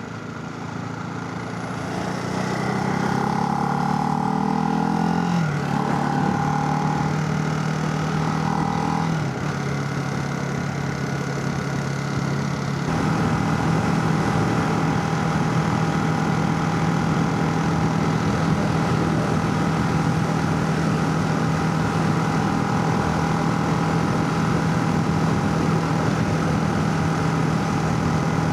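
Motorcycle engine pulling hard, its pitch climbing and then dropping at upshifts about five and nine seconds in, then holding steady at cruising speed. Wind noise rushes over the helmet microphone throughout.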